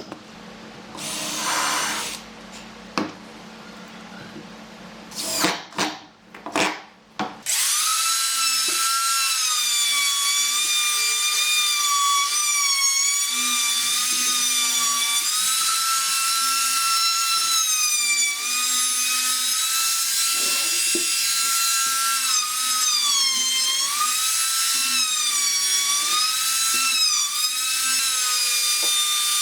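Handheld electric power tool, drill-like, working wood. For several seconds there are short bursts and knocks. Then the motor runs with a steady high whine, and its pitch dips again and again as it is loaded in the cut.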